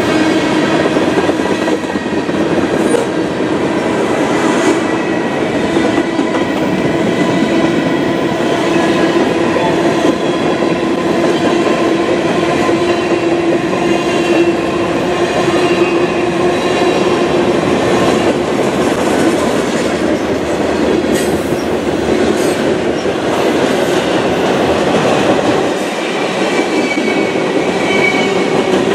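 CN freight train cars rolling past on the rails: a steady, loud rolling rumble with wheel-on-rail clatter and faint ringing tones from the wheels.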